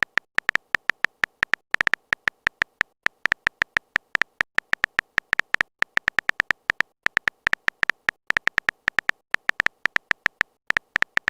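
A rapid, irregular train of very short electronic beeps, each with a tone near 2 kHz, separated by dead silence.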